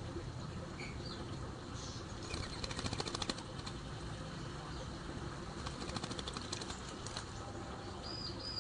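A small bird's wings flapping in two quick flurries of rapid beats, one about two and a half seconds in and one about six seconds in. A few short, high chirps come in between and near the end.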